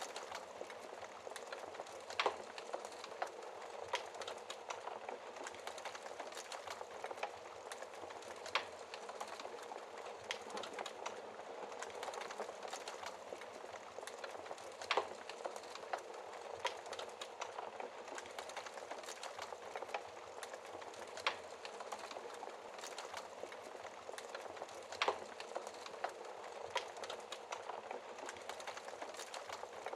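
Wood fire burning in a fireplace: a steady soft hiss of flames with sharp crackles and pops from the burning logs at irregular intervals, a few louder snaps scattered through.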